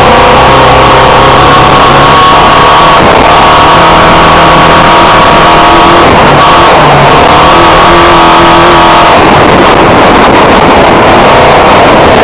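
Renault Clio autocross car's four-cylinder engine racing at high revs, recorded on board and very loud, with breaks and pitch shifts about every three seconds as it shifts gear or lifts off. Near the end the engine note turns rougher and noisier.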